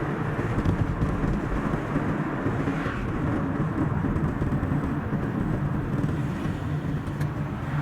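Steady road and tyre noise of a car driving along a highway, an even rushing with no clear engine note, with a single light click near the end.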